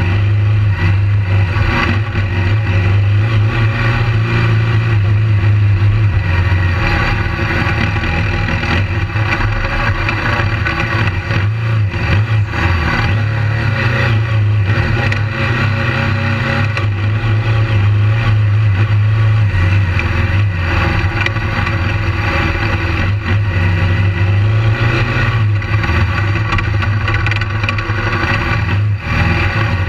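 BMW GS adventure motorcycle's engine running hard and rising and falling with the throttle as it is ridden over a dirt track, with heavy wind rush on the microphone.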